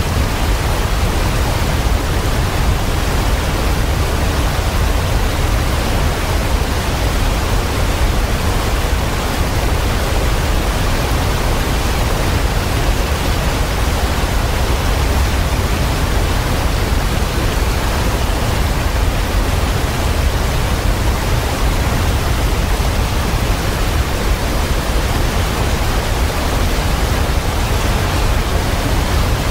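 Waterfall pouring steadily: a constant, even rush of falling water, heaviest in the low end, with no birds or other events standing out.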